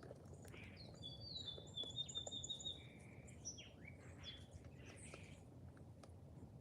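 Wild birds chirping and calling, faint, with a quick run of high repeated notes between about one and three seconds in, over steady low background noise.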